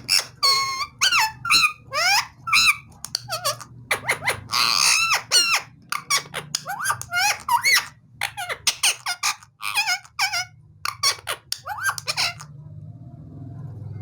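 Indian ringneck parakeet chattering in a rapid run of short, high-pitched squeaky calls and whistles that bend up and down in pitch, with a harsher screech about four to five seconds in. The calling stops about twelve seconds in, leaving a faint low hum.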